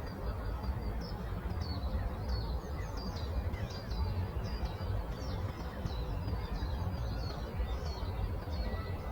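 Songbirds chirping, a run of short, high notes that fall in pitch and repeat many times a second, over a steady low rumble of outdoor background noise.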